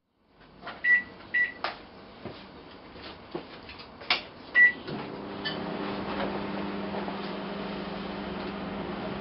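Microwave oven being set and started: clicks and knocks with three short high beeps from the keypad, then about halfway through the oven starts running with a steady hum.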